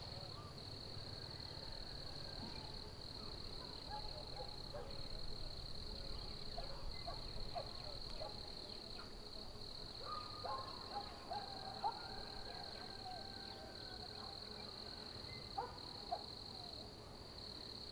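Outdoor ambience: a steady high-pitched drone of insects runs throughout, with scattered short chirps and whistled calls of birds over it.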